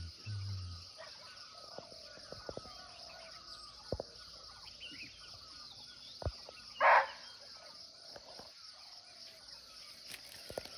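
A barking deer (muntjac) gives a single short, loud bark about seven seconds in, over steady insect chirring and faint bird chirps.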